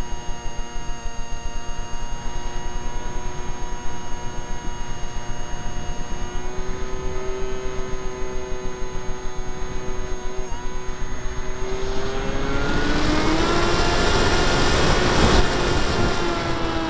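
Brushless electric motor and 7x6 propeller of an RC flying wing, heard from an onboard camera as a steady whine. About twelve seconds in, a loud rush of air noise swells and the whine rises slightly in pitch, then eases near the end.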